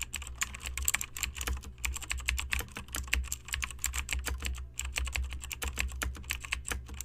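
Rapid, irregular clicking of typing on a keyboard, with a brief pause past the middle, over a low steady hum.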